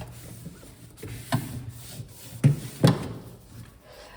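Fridge shelves and trays being wiped and handled: rubbing, with three light knocks, one about a third of the way in and two close together just past halfway.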